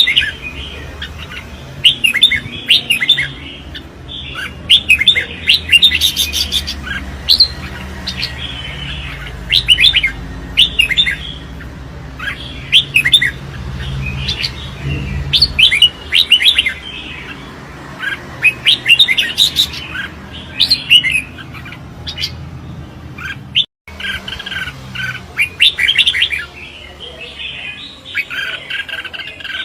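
Red-whiskered bulbuls singing in competition, a rapid series of short, loud, warbling phrases. The song breaks off briefly a little after the middle.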